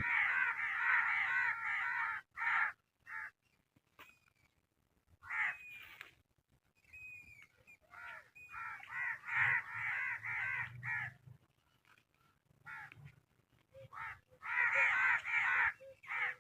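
Birds giving harsh, rapidly repeated calls in several runs, with a few short whistled notes between them; the sound cuts off abruptly to silence between the runs.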